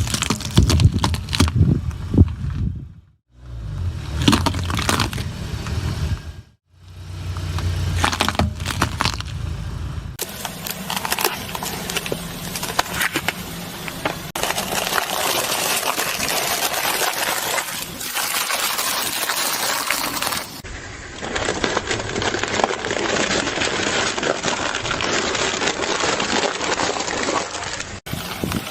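Car tyres rolling over and crushing crunchy objects, in a run of short clips. The first ten seconds or so hold a low rumble of the car with scattered cracks and pops; after that comes dense, steady crackling and crunching.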